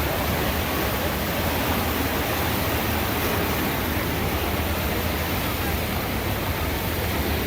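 Little Pigeon River in flood after hours of rain, its fast, high water rushing steadily.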